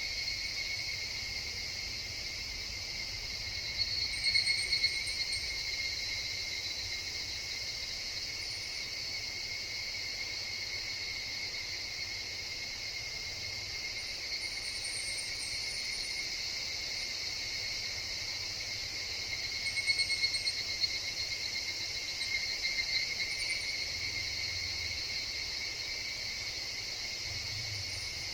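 Chorus of higurashi (evening cicadas) in a forest: a steady, even ringing that swells louder briefly about four seconds in and again around twenty seconds in, with faint high chirps here and there.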